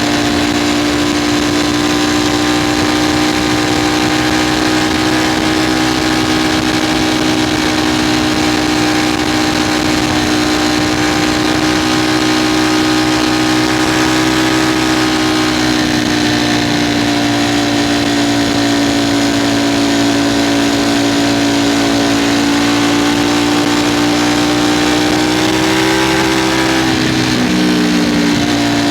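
Ducati Streetfighter V4 engine pulling at a steady high pitch under the rush of riding noise. Near the end the pitch drops and climbs back, as with a throttle change or gear shift.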